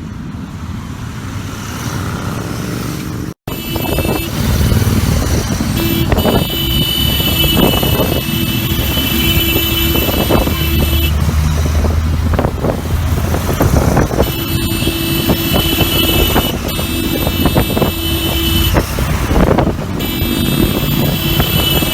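Many motorcycles running and riding past in a rally, a dense steady engine noise. Twice, for several seconds each, a steady pitched tone sounds over the engines.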